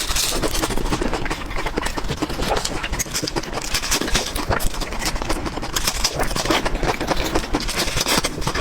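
Close-miked chewing and eating of chicken: a dense, continuous run of wet mouth clicks and smacks.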